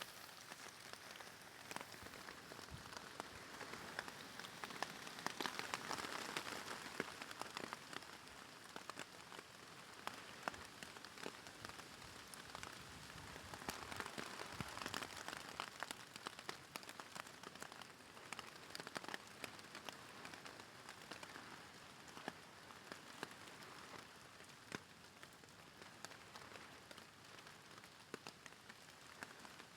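Rain falling on thick polythene sheeting overhead: a faint, steady hiss dotted with many small drop ticks, swelling slightly a few times.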